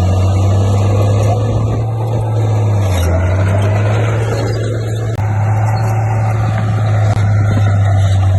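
Komatsu D58P bulldozer's diesel engine running steadily under load, a deep drone whose pitch dips about three seconds in and picks up again a couple of seconds later.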